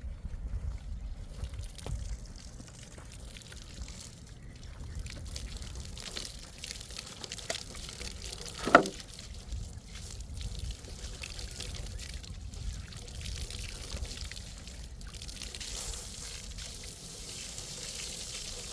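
Water pouring and trickling, the hiss growing stronger in the last few seconds. About halfway through there is one short, loud pitched sound.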